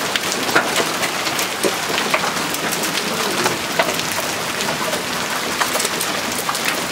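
Hail falling in a thunderstorm downpour: a steady heavy hiss of rain dotted with many sharp ticks and clicks of hailstones striking the ground.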